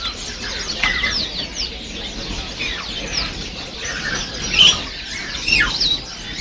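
Many caged songbirds chirping and calling at once: a dense chorus of short, high chirps that mostly fall in pitch, with one louder call about four and a half seconds in.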